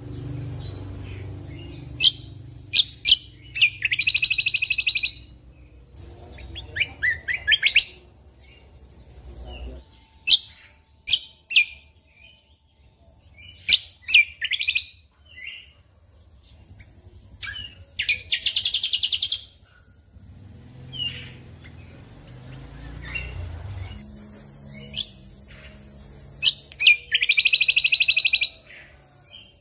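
A cucak kombo (kecial kombok) songbird singing: sharp high chirps broken by four buzzy, rapid trills of about a second each. A low hum runs underneath for much of it.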